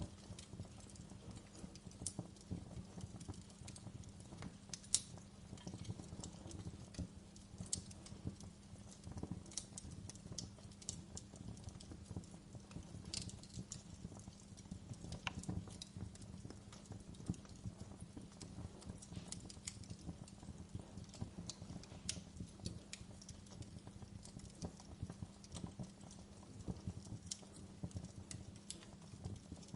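Wood fire burning in a fireplace, crackling steadily with frequent sharp pops scattered throughout, over a faint steady low hum.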